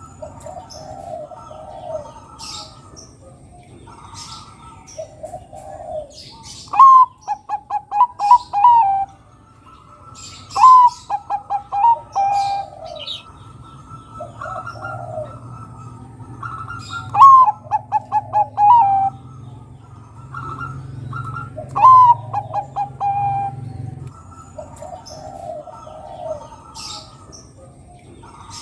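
Zebra dove (Bangkok-type perkutut) singing its staccato cooing song, four loud phrases, each a quick run of short notes. Softer cooing fills the gaps between phrases.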